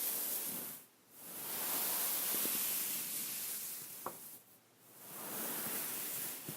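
Fingers rubbing and scratching over a beaded pillow, giving a dense rustle in long strokes with short breaks about a second in and past the middle. A single small click comes a little after four seconds.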